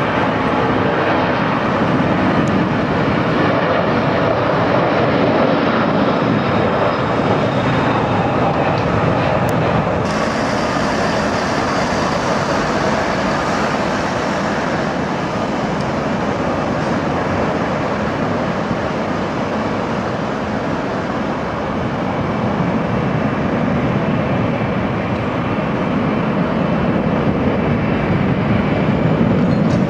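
Airliner engine noise: a loud, steady rushing rumble with no clear tone, changing character about ten seconds in.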